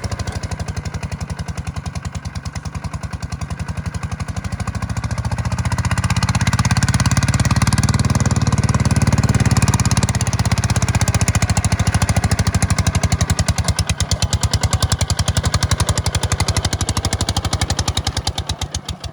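Kubota tractor's diesel engine running with a rapid, even firing rhythm, growing louder about six seconds in and staying up as it works.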